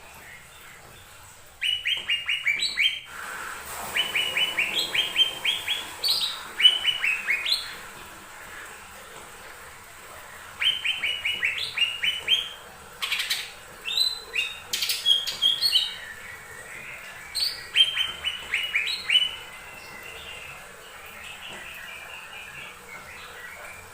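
Lesser green leafbird (cucak ijo mini) singing: four bouts of quick, evenly repeated short chirps, about five a second, each bout ending on a higher note, with pauses between. Softer chattering follows near the end.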